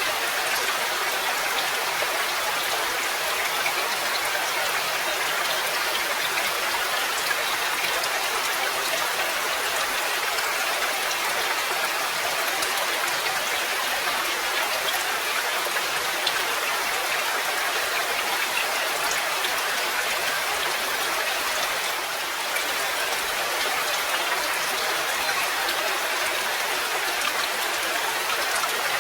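Steady rain falling, a dense even hiss of drops with fine scattered pattering on surfaces.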